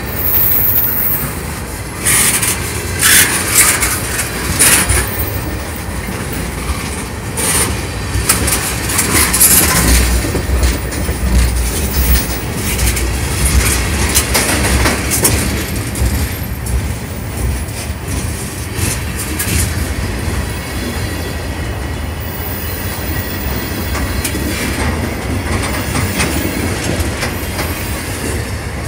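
Loaded freight cars of a passing freight train rolling by close up: a steady heavy rumble with the wheels clattering over the rail joints. Sharp metallic clanks come mostly in the first third.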